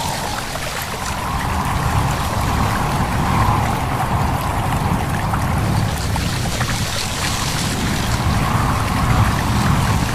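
A stream babbling and trickling under a steady rush of wind through leaves, with a faint wavering whistle of wind above it.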